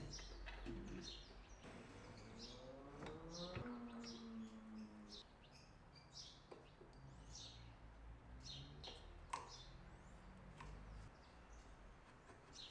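Faint bird chirping throughout, with a few light knocks and clicks from handling.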